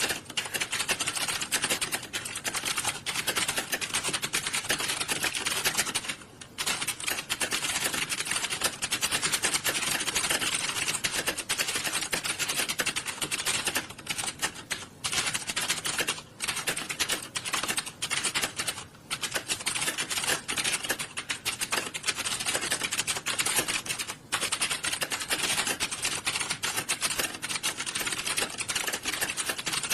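Fast typing on computer keyboards: a dense, continuous clatter of keystrokes, broken a few times by brief pauses.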